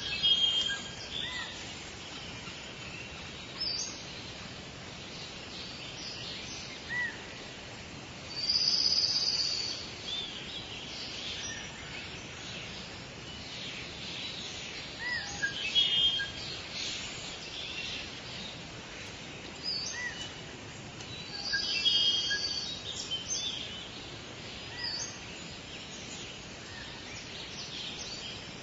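Several birds calling and singing over a steady hiss of forest background, with short high chirping phrases coming every few seconds and a few short rising whistles in between.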